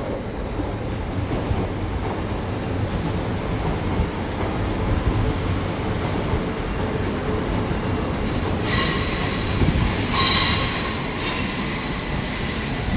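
Passenger train moving slowly through the station with a steady low rumble. About eight seconds in, its wheels start squealing on the curved track in several high, ringing tones, loudest around ten seconds in.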